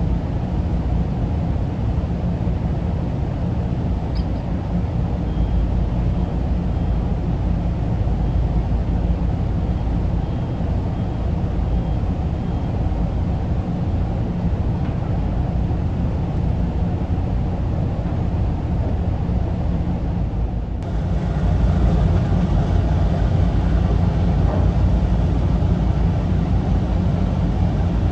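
High-speed ferry engines rumbling steadily in the harbour. The sound steps up a little louder after an abrupt change about 21 seconds in.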